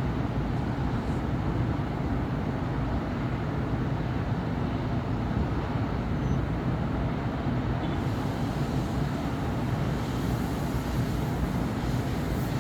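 Steady city road traffic: an even, low rumble of passing vehicles on a busy avenue, with a brighter hiss joining about eight seconds in.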